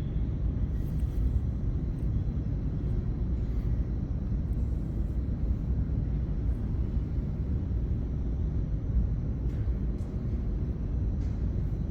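Steady low rumble of background noise in a large indoor exhibition hall, with a few faint ticks near the end.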